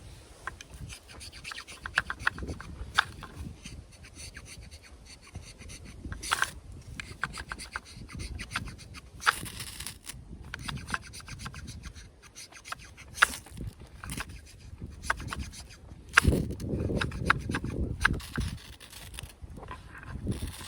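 Irregular scraping strokes of a knife blade on wood, as in carving shavings for a feather stick, with a few sharper, harsher scrapes among them and some heavier handling noise near the end.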